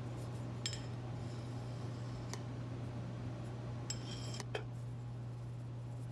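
A few light metallic clicks and taps (one under a second in, one around two and a half seconds, and a short cluster around four seconds) over a steady low hum, as steel parts of a milling machine are handled while the last x-axis gib is fitted.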